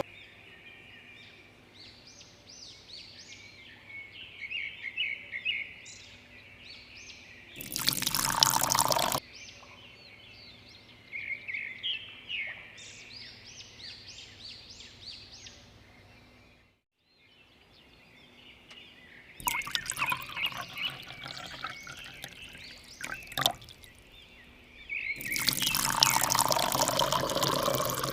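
Water pouring and trickling, with high bubbling and gurgling, broken by louder gushes: one of about a second and a half some eight seconds in, a rougher stretch about two-thirds through, and a loud gush near the end.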